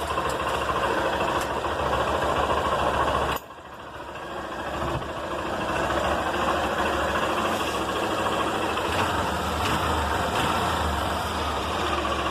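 Motorcycle engine running. Its sound drops abruptly about three and a half seconds in and builds back up over the next couple of seconds.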